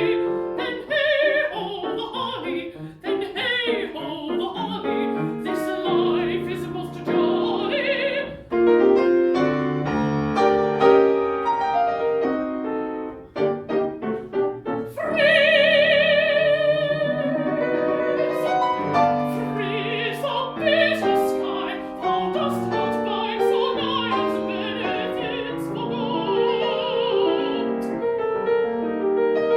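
Classical mezzo-soprano singing an English art song with piano accompaniment, the voice with strong vibrato, holding one long note about halfway through.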